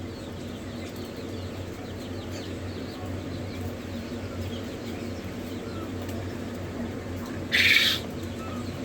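Newly hatched quail chicks peeping faintly and scattered over a steady low hum, with one brief, loud scratchy rustle near the end.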